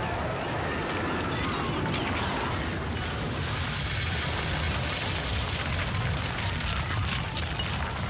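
Dense, steady rumbling din with crackles and pops from a staged explosion and crash in a television drama.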